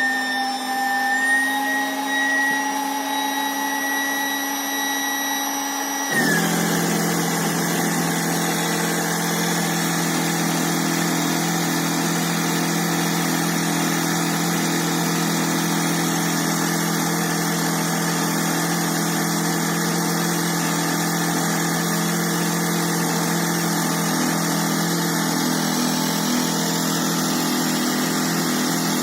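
Electric boat-inflation pump running continuously, pushing air through a 3-metre hose into an inflatable boat. Its whine rises slowly in pitch, then about six seconds in the sound changes abruptly to a lower, steady hum.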